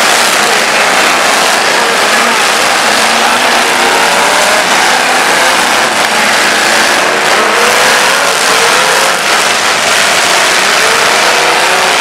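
Several demolition derby cars' engines revving at once, loud and continuous, their pitches rising and falling over one another.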